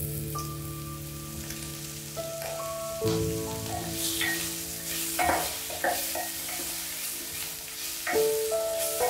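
Sliced ham sizzling in hot oil with ginger and garlic in a glass pot, stirred with a wooden spatula that knocks against the pot several times.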